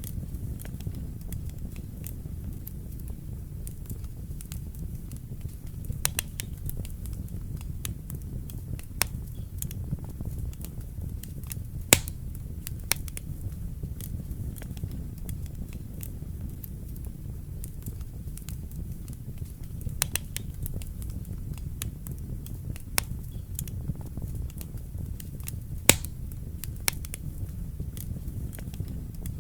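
Wood fire burning in a fireplace with a steady low rumble, broken by scattered crackles and pops; the two sharpest pops come about twelve seconds in and near the end.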